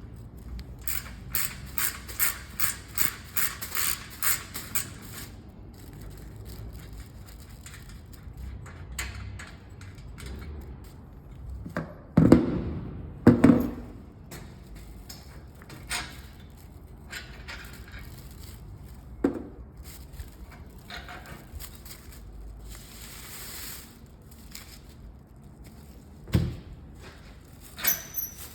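Ratchet wrench clicking in a quick, even run of strokes for a few seconds, as bolts on a mini bike's front shock absorbers are worked loose. About midway come two loud metal clunks, then scattered single knocks and clicks of tools and parts being handled.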